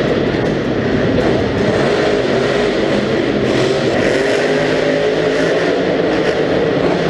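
Monster truck engines running loud and continuous in an arena during a racing round, their pitch wavering up and down as they rev.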